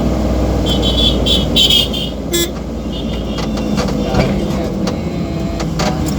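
Truck engines idling in stopped traffic: a steady low rumble. About a second in come a run of short high-pitched beeps, and a sharp click sounds at about two and a half seconds.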